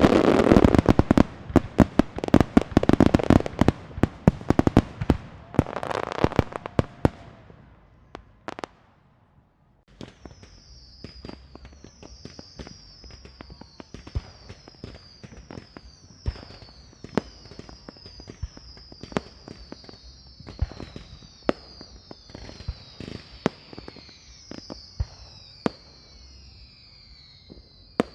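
Firecrackers going off in a dense, loud rapid string for about eight seconds. After a short pause, a quieter run of scattered cracks and pops follows, with many high, falling whistles overlapping above them.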